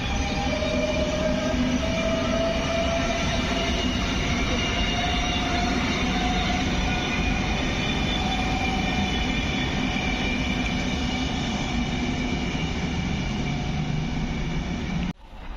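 Train running through the station close by: steady rail and wheel noise with a few held high whining tones. It cuts off abruptly near the end.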